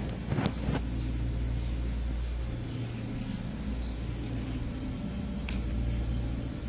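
Steady low mechanical hum with a few sharp clicks or knocks: two close together about half a second in, and one more past five seconds.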